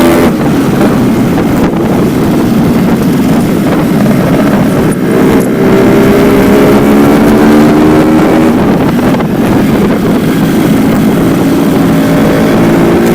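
Yamaha RX-King's single-cylinder two-stroke engine running under way, heard through a stock silencer that keeps only its baffle screen. The pitch climbs in two long pulls under acceleration, with a short break between them about nine seconds in, over wind noise on the microphone.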